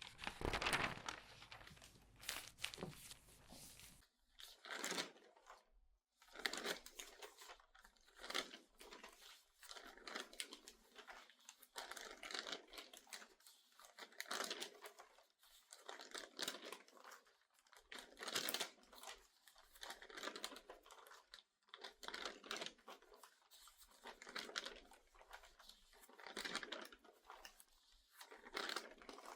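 Newspaper pages turned quickly, each turn a crinkling rustle, about one a second. For the first few seconds the pages are being squeezed as they turn; after that a crinklier newsprint is turned.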